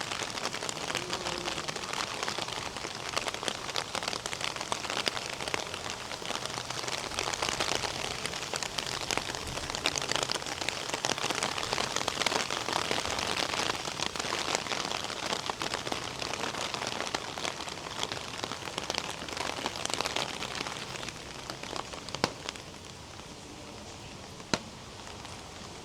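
Rain falling steadily, a dense spray of fine drop hits that eases off about 23 seconds in, leaving lighter rain with a couple of sharper single drop hits near the end.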